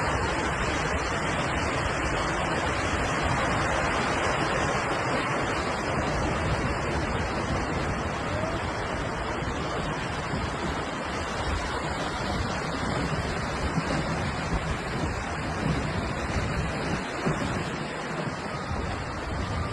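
Steady, noisy roar of rushing water, with a few short knocks in the last few seconds.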